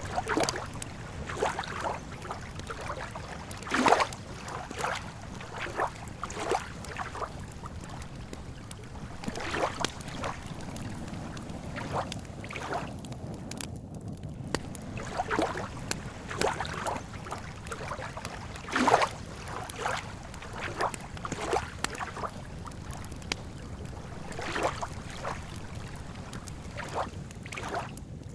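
Wood campfire crackling and popping irregularly, with lake water lapping over a steady low rumble. Two pops stand out, one about four seconds in and one about two-thirds of the way through.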